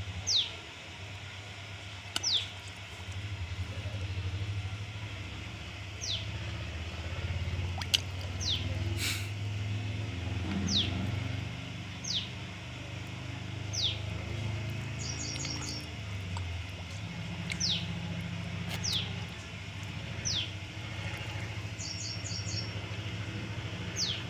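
A bird repeats a short, sharp whistle that falls in pitch, about every two seconds. Twice it breaks into a quick run of stuttered high notes. A steady low hum runs underneath, with a single sharp click about eight seconds in.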